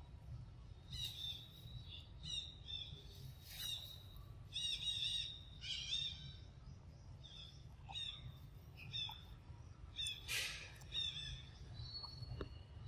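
Wild birds chirping, a run of short, high, repeated notes that come and go, over a low steady hum.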